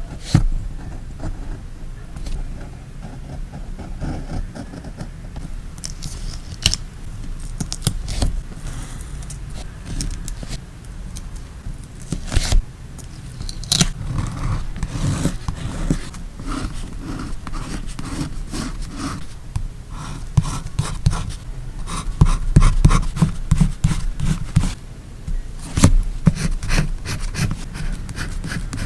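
Paper-craft handling sounds: scissors snipping, with paper, stickers and washi tape rustling and scraping and many short clicks and taps. The clicks grow densest about three quarters of the way through.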